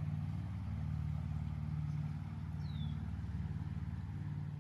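A low, steady mechanical hum, with a faint short high falling chirp about two and a half seconds in.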